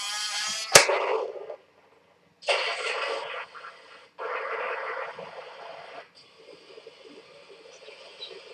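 Sound effects from an RC Tiger tank's sound unit, played through its small speaker: a buzzing tone cut by a sharp bang about a second in, then two longer noisy blasts, then a quieter steady engine hum.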